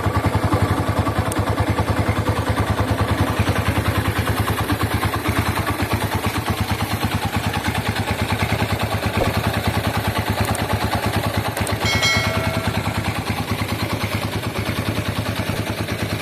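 Honda GL100's single-cylinder four-stroke engine idling with a steady, even exhaust beat.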